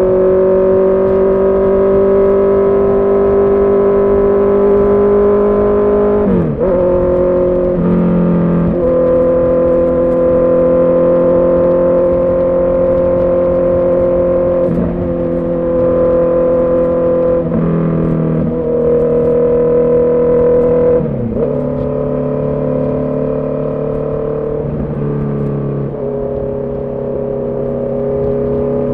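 Honda CB650R's inline-four engine and exhaust under way, holding a steady pitch and stepping to a new engine speed about every three to six seconds as the gears are changed.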